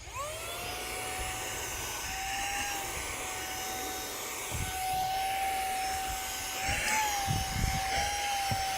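VNOST cordless handheld car vacuum switching on at its low setting. Its motor whine climbs quickly in pitch as it spins up, then runs steadily over the rush of airflow. A few soft low bumps come in the middle and near the end.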